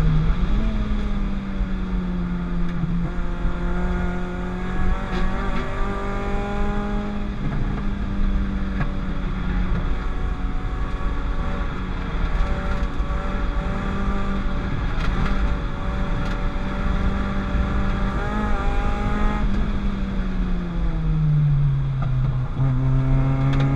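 Peugeot 205 GTI's 206 RC four-cylinder engine running hard on track, its pitch holding and wavering as it pulls. Near the end the revs fall away, then start rising again.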